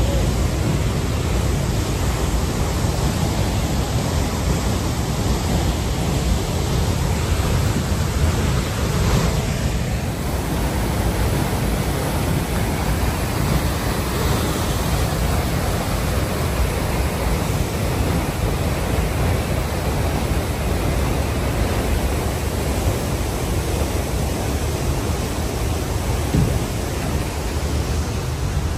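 Steady rushing roar of falling water from a waterfall, an even wash of noise with no breaks.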